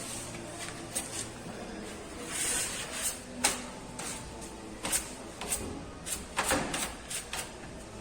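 Irregular knocks and clicks with a few short scrapes, over a steady low hum, typical of hand work on a car body.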